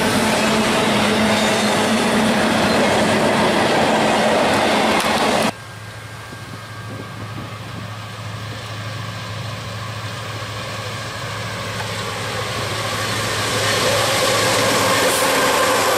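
A double-stack intermodal freight train rolling past close by, its wheels running on the rails, for the first five seconds. After an abrupt cut, a BNSF coal train led by an SD70ACe and an ES44DC diesel locomotive approaches: a low engine drone that grows steadily louder until the locomotives draw near at the end.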